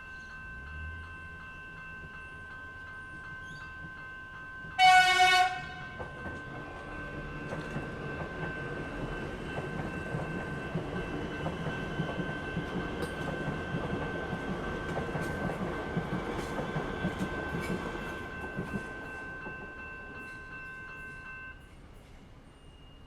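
Level crossing warning bells ring steadily. A Melbourne suburban electric train sounds one short horn blast about five seconds in, then passes through the crossing, its wheels rumbling and clicking over the rails for about a dozen seconds. The bells stop near the end.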